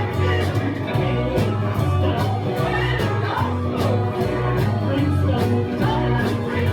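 A live band playing a song: a bass line and drums with cymbal hits keeping a steady beat, with guitar or voice over it.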